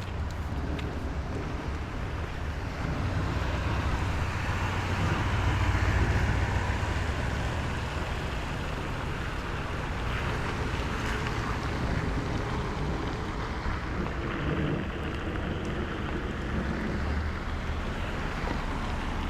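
Rainy city-street ambience: a steady hiss of rain and wet traffic with low wind rumble on the microphone. It swells to a peak about six seconds in.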